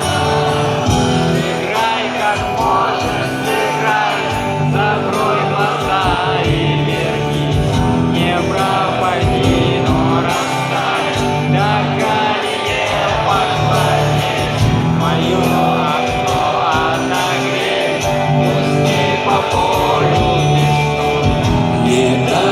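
Live rock band playing loudly on guitars and drums while a concert crowd sings the chorus along with it.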